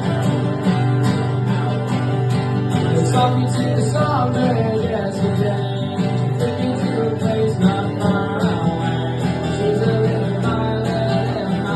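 Acoustic guitar strummed steadily.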